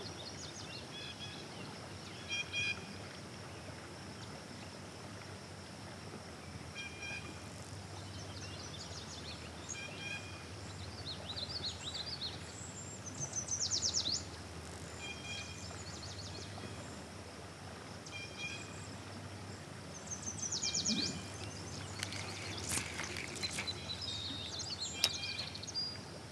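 Outdoor river-side ambience with songbirds calling. Short chirps repeat every few seconds and several quick, high trills break in, over a steady faint background hiss.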